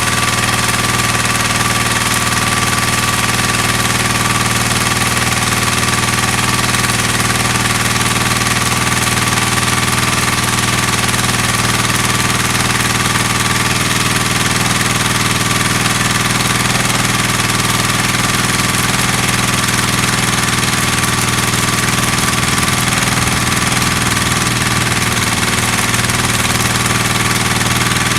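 Petrol engine of a portable welder generator running at a steady speed, an even, unchanging engine tone.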